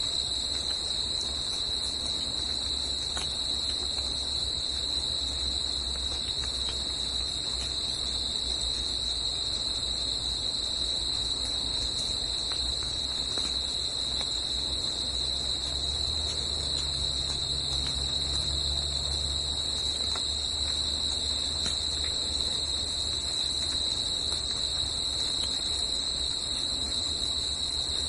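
Insects, such as crickets, trilling in an unbroken high, steady drone, over a steady low rumble.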